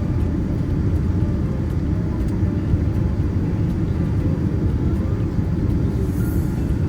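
Steady low rumble of a Boeing 787 heard from inside the cabin: engine and airflow noise holding an even level.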